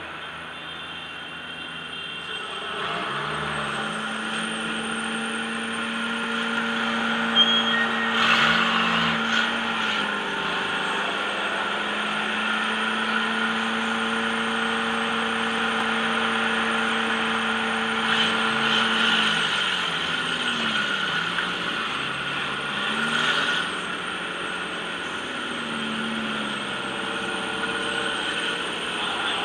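A democross car's engine heard from inside the cabin. It holds a steady drone under the rough noise of the car running on the dirt track, then, about 19 seconds in, rises and falls in pitch as it is revved and backed off through the turns. There are a few sharp knocks and rattles about 8 seconds in and again near 23 seconds.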